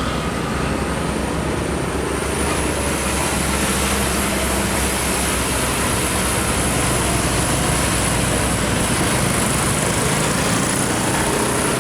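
Heavy road traffic with diesel truck engines running and tyre noise, a steady rumble with a thin high whine that rises slightly about two seconds in.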